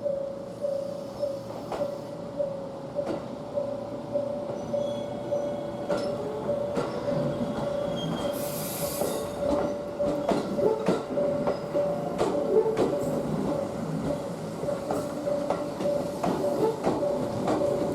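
JR 373 series electric train moving slowly over jointed track and points, with wheels squealing and clicking over the rail joints, the noise building about a third of the way in. A warning bell rings steadily throughout at about three strokes a second, typical of a level-crossing bell. There is a short hiss about halfway through.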